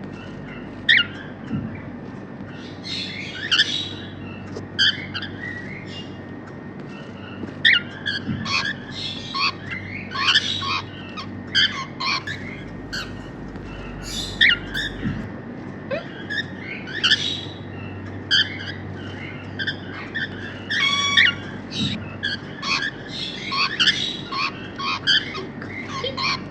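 Grey cockatiels chirping and squawking in short, sharp calls, irregular and at times in quick clusters, with a brief pause in the calls about five seconds in.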